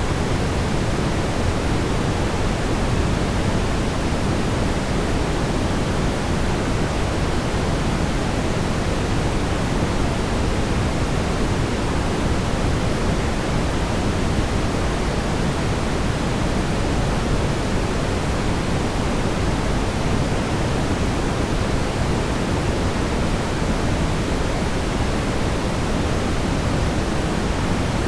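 Steady synthetic brown noise: an even, unbroken rumbling hiss weighted toward the low end, with no changes or events.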